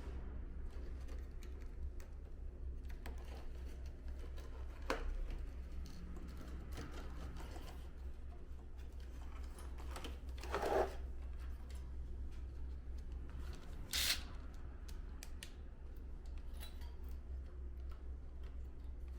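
Scattered clicks and knocks of air-conditioner indoor-unit parts being handled and fitted back together during reassembly. There is a louder scrape about ten seconds in and a sharp snap about fourteen seconds in, over a steady low hum.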